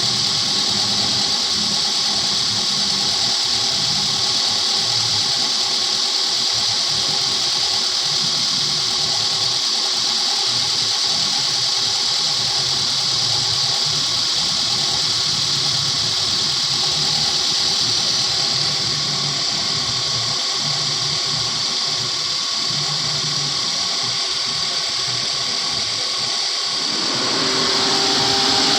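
Suzuki Karimun Kotak's small four-cylinder engine running steadily, with a strong hiss over the engine note. Near the end the note changes and a new steady hum comes in.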